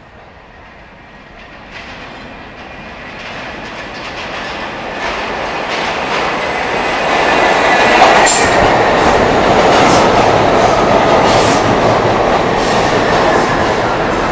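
Westinghouse-Amrail R68 subway train pulling into the station, growing steadily louder over about eight seconds and then staying loud, with wheels clacking over rail joints and a brief high wheel squeal about eight seconds in.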